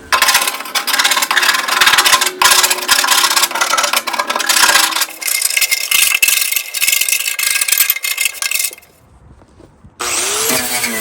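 Rough, rasping scraping and rubbing on a hard surface, dense with quick clicks, for about nine seconds, breaking off to near quiet before a different steady sound starts near the end.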